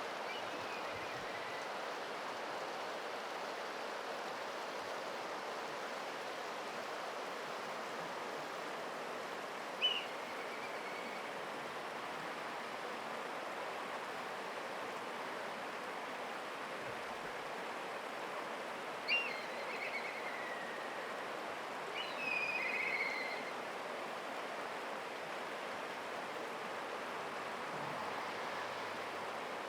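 Black kite calling: thin whistles that start sharply and slide downward with a slight warble, four times, the first faint, over a steady rushing background noise.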